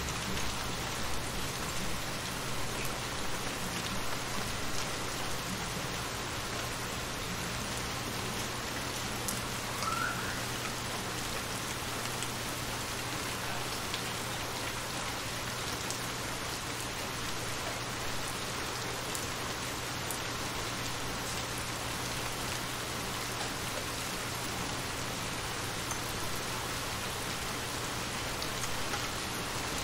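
Steady rain falling on shallow water, with individual drops splashing on the surface.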